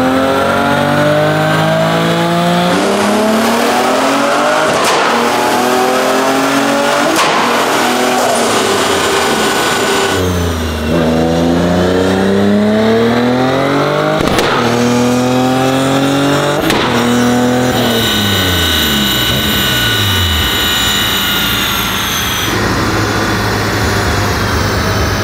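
Turbocharged BMW S54 straight-six in an E30 M3 making a full-throttle pull on a chassis dyno, revving up through the gears, its pitch climbing again after each brief break for an upshift. Near the end it winds down and settles to a steadier, lower note.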